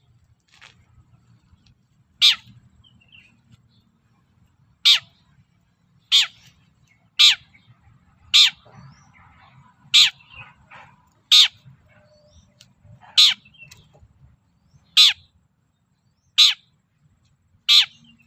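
Long-tailed shrike (cendet) giving short, harsh calls, eleven of them, spaced about one to two and a half seconds apart.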